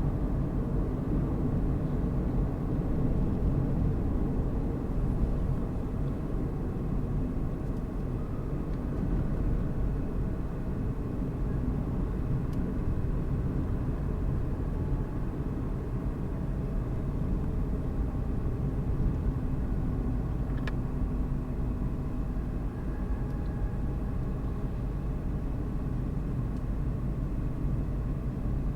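Car driving at a steady speed: low road and tyre noise with a faint, steady engine hum.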